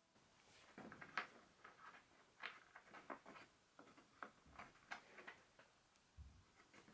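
Faint, irregular light clicks and taps, roughly one or two a second, with a soft low thump near the end.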